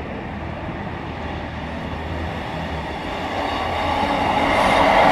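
East Midlands Trains Class 158 diesel multiple unit approaching fast, its rumble growing steadily louder from about three seconds in.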